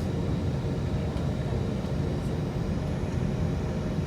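Airbus A320 cabin noise around takeoff: the jet engines and airflow make a steady, deep rumble with a hiss above it, unchanging throughout.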